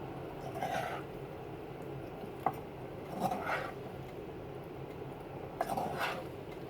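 Metal cooking utensil stirring vegetables in a pan, with a few short scrapes and one sharp clink against the pan about two and a half seconds in.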